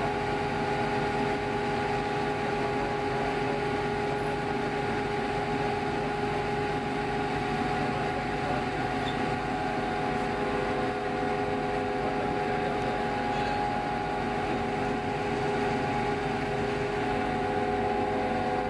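Steady drone of a passenger ferry's engines, a constant hum over a low rumble.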